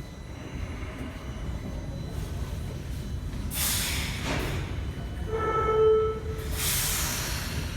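Subway train standing at the platform with a steady low rumble. It gives two loud hisses of air, with a short horn-like tone of about a second between them, just before it pulls away.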